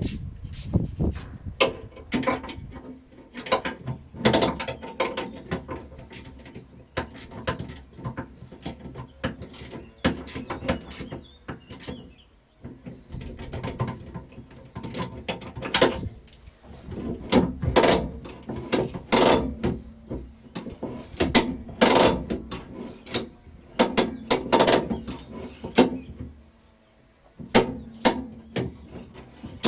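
Irregular metallic clicks and clanks of hand tools working on metal machine parts, with short pauses between bursts.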